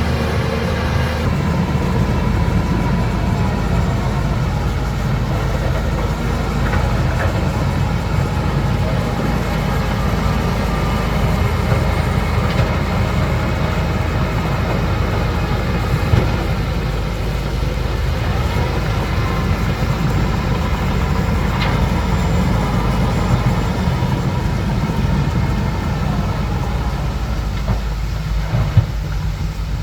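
Bulldozer's diesel engine running steadily under load, with the clatter of its steel crawler tracks and faint metallic squeals. There is a sharp knock near the end.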